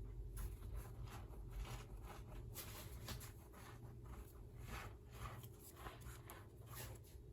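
Crusty bread crackling and tearing in quick, faint scratchy rustles as the inside of a loaf is pulled and scooped out by hand, over a low steady hum.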